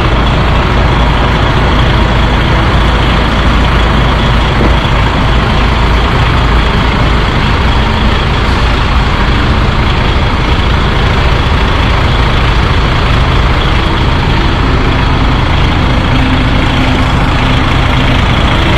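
DAF truck's diesel engine idling steadily and loud, heard close by.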